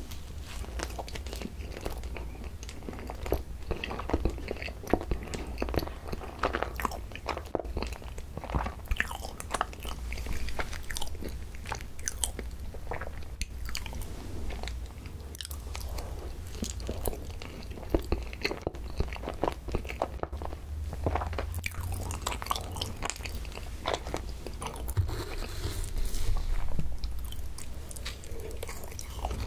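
Close-miked eating: bites into a soft cream-filled bun and wet, sticky chewing with lip smacks, a steady run of small mouth clicks. Near the end a spoon scoops ice cream from the tub.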